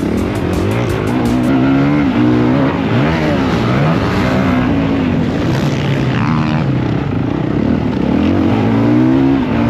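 Motocross bike engine revving hard, its pitch rising and dropping again and again through gear changes and throttle on and off.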